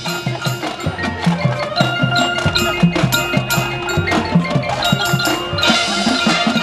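Marching band music led by its percussion: a quick run of struck mallet and bell-like notes over low drum hits, with a few notes held.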